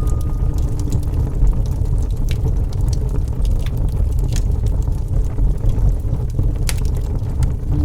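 Wood fire burning with a low, steady rumble and scattered sharp crackles and pops.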